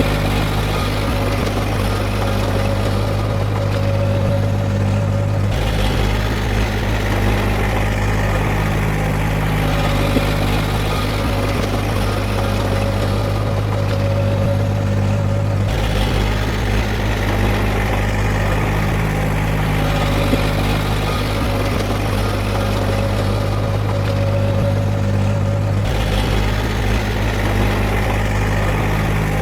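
Heavy diesel engine of an earthmoving machine running steadily. Its sound shifts abruptly about every ten seconds.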